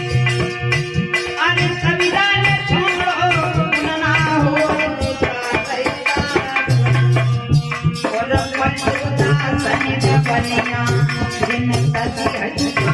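Bhajan music: a steady tabla beat under a wavering melody line, with rattling hand percussion.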